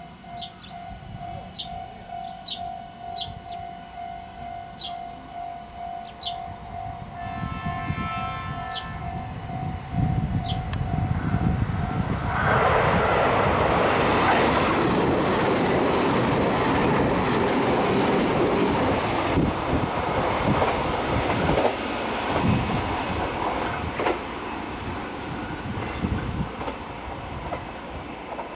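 JR Kyushu 885-series limited express electric train passing through a station at speed. It sounds one horn note about seven seconds in, then its rumble builds into a loud rush of wheels and air that peaks for several seconds before fading. A level-crossing bell rings about twice a second through the first twelve seconds, with bird chirps over it.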